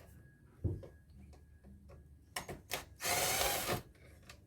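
Plastic and metal parts of an air-conditioner indoor unit being handled during teardown: a knock, a couple of clicks, then a brief loud scraping rub about three seconds in.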